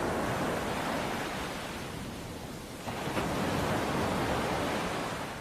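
Rushing of sea waves, a steady wash that eases off and then swells again about three seconds in.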